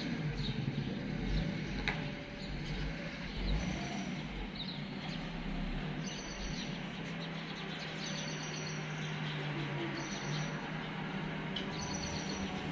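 Steady low outdoor background hum with small birds chirping. From about six seconds in, short high chirps come roughly every two seconds.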